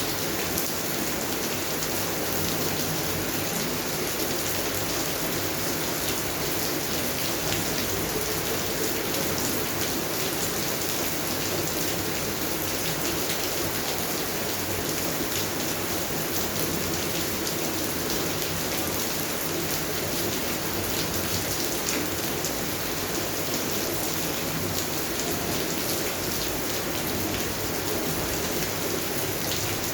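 Steady rain falling on garden plants: an even hiss with many individual drops ticking through it.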